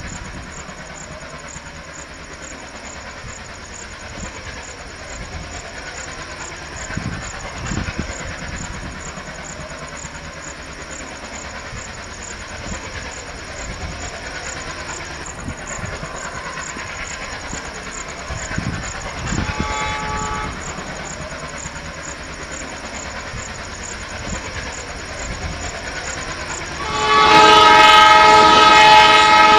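Train running on rails with a steady rumble. A short locomotive horn blast sounds about two-thirds of the way through, then a much louder horn sounding several notes at once starts near the end.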